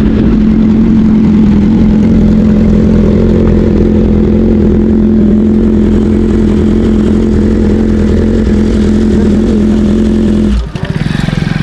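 Inline-four sport motorcycle engine running loud at steady revs, then the revs drop suddenly about ten and a half seconds in and it runs on lower and quieter.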